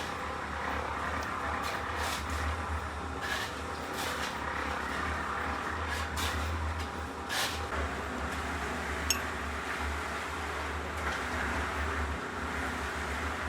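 A steady low mechanical hum with a faint background hiss, broken by a few light clicks and one sharp tick about nine seconds in.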